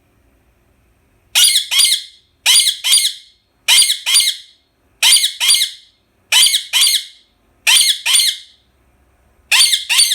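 Indian ringneck parakeet screeching: seven loud double calls, each a pair of harsh notes sweeping downward, repeated about every second and a quarter.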